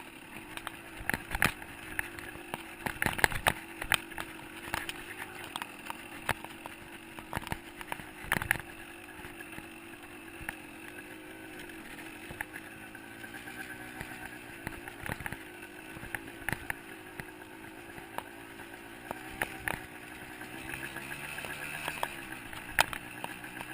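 125cc two-stroke dirt bike engine running at a fairly steady, slightly wavering speed, with frequent sharp knocks and clatter.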